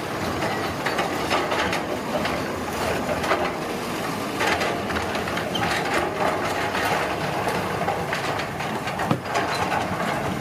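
Road-construction machinery at work: a continuous dense clatter of small knocks and scrapes over a steady rumble.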